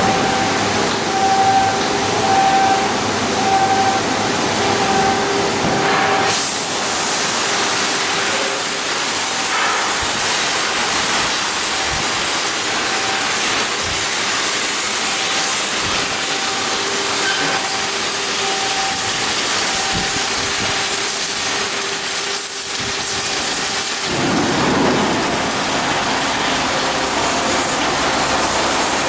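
Loud, steady hissing noise of shipyard fabrication work, growing brighter about six seconds in, with faint steady hums that come and go beneath it.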